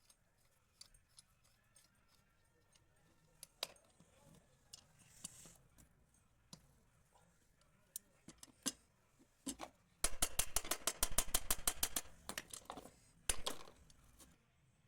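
Scattered metallic clicks and knocks of tools and parts being handled while a ceiling fan's bearing is replaced, with a rapid, evenly spaced run of clicks for about two seconds past the middle, then a few louder knocks.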